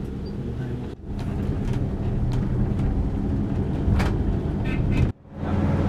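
Steady low rumble of vehicle noise. It drops out abruptly and briefly about a second in and again near the end.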